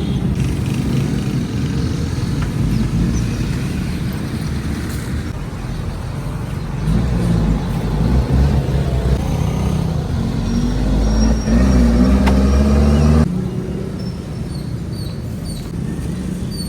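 Street traffic: a motor vehicle engine running close by. It grows louder for a few seconds and then drops off sharply about thirteen seconds in.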